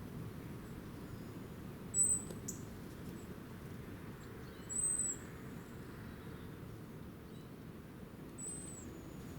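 A small bird chirping: three short, high, slightly arched chirps about three seconds apart, over a steady low background rumble.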